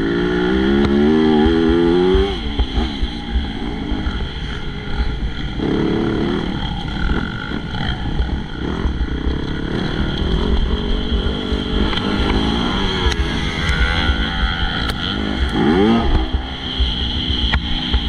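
MX2 motocross bike engine revving up and down as it is ridden hard, its pitch rising and falling with throttle and gear changes. About fifteen seconds in comes a quick, sharp rise in revs.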